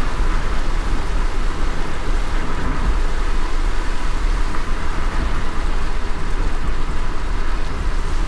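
Car driving in light rain: a steady low rumble of engine and tyres under an even hiss of rain.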